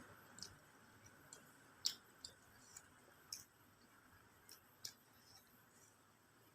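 Faint, irregular mouth clicks and lip smacks of someone chewing food, about a dozen, the loudest about two seconds in.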